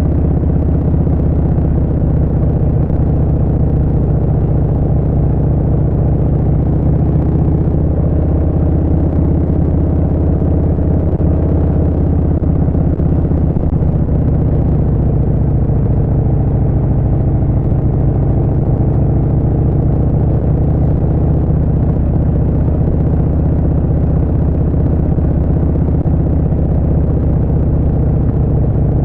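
Harley-Davidson Street Bob 114's Milwaukee-Eight V-twin engine through a Vance & Hines Short Shots exhaust, running steadily at cruising speed, its pitch shifting only slightly.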